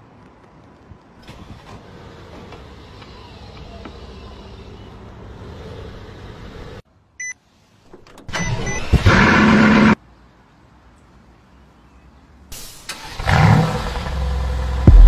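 Remote starts of sports cars from the key fob: a faint steady hum for several seconds, then a short beep and an engine starting and revving briefly about eight seconds in, and near the end another engine firing up with a loud rev.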